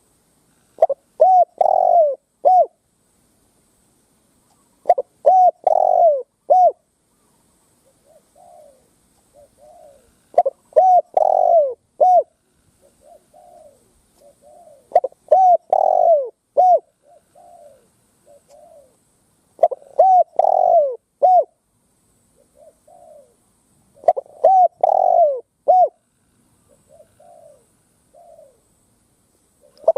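Spotted dove cooing: a loud phrase of four or five coos, the middle ones longest, repeated six times about every five seconds, with softer, shorter coos in the gaps between.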